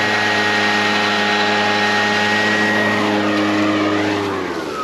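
Petrol leaf blower running steadily at full throttle, its engine note over a loud rush of air; near the end the throttle is let off and the engine drops back, leaving a falling whine as the fan slows.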